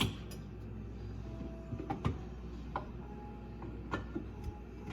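Garbage disposal switched on but jammed, giving a low steady hum without spinning, with a few light clicks: the disposal is still stuck after rocks were cleared from it.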